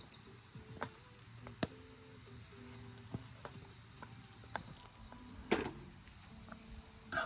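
Wood campfire crackling, with sharp irregular pops about once a second; the loudest pop comes about five and a half seconds in.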